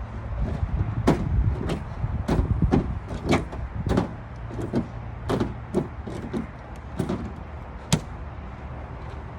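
Ratchet strap being worked and cranked tight: about a dozen irregular clicks and knocks, the sharpest one near the end.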